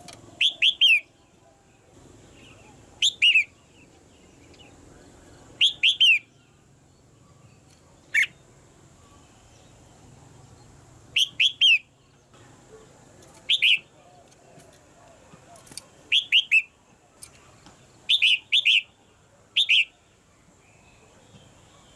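Red-whiskered bulbul calling: short chirping clusters of two or three quick downslurred notes, repeated every two to three seconds.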